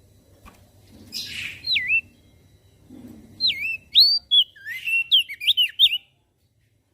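Crested darkeye (opior jambul) singing: a harsh rasping note, then a quick run of clear, swooping whistled notes. The song cuts off abruptly near the end.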